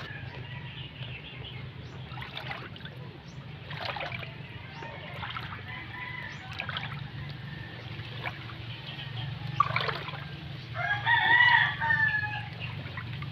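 A rooster crowing once near the end, over a steady low hum.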